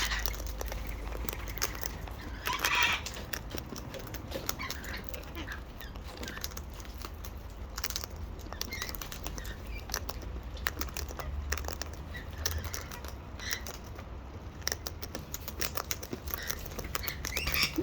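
Parrots cracking and crunching seed at a container: a stream of small, irregular clicks and cracks, with one short squawk about three seconds in.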